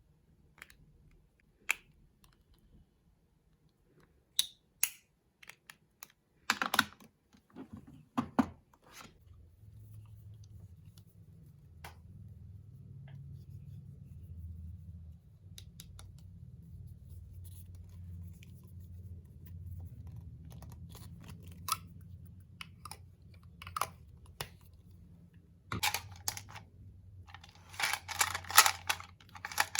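Cosmetic cases handled close to the microphone: scattered sharp clicks and taps of plastic lids and compacts, a stretch of faint low rumble, then a burst of rapid scratchy tapping near the end.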